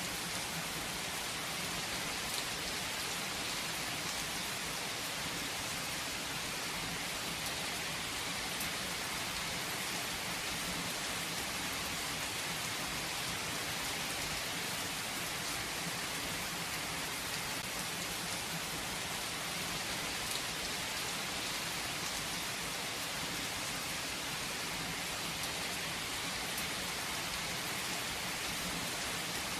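Steady rain falling on a surface, with faint scattered drop ticks over an even hiss.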